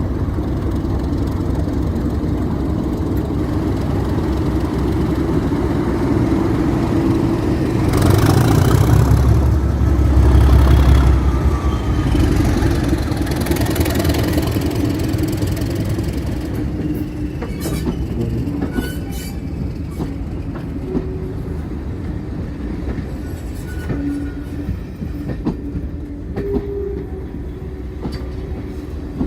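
Diesel locomotive hauling a train past, its engine rumble loudest about eight to twelve seconds in and then easing off. In the second half come short wheel squeals and sharp clicks from the wheels on the track.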